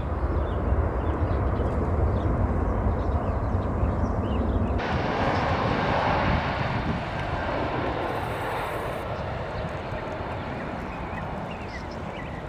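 Jet airliner engines: a Boeing 737's low rumble, then, after an abrupt cut about five seconds in, an Airbus A321's engine noise, brighter and fuller in the upper range, slowly fading toward the end.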